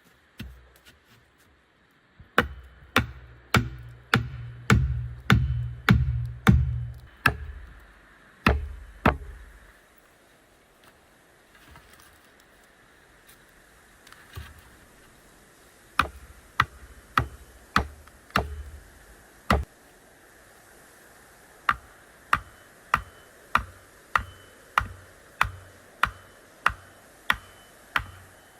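Repeated hard strikes, about one every 0.6 s, in three runs: about twelve with heavy low thuds, a pause, about six more, then a steady run near the end.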